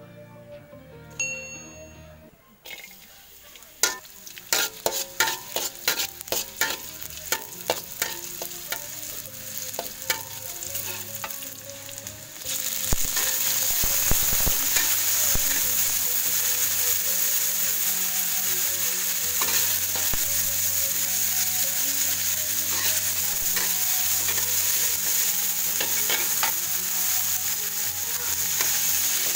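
Chopped shallots and tomato with fried tempeh stir-frying in hot oil in a wok, with a metal spatula working them: a loud, steady sizzle that starts suddenly about halfway through. Before it, a run of sharp taps and clicks for several seconds.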